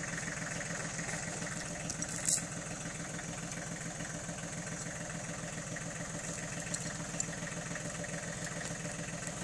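Farm tractor engine idling steadily, with one short, sharp knock about two seconds in.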